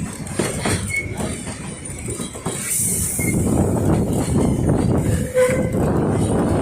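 Puffing Billy narrow-gauge steam train hauled by locomotive 8A running: a steady rumble with irregular clatter of the wheels on the rails, and a brief hiss about three seconds in.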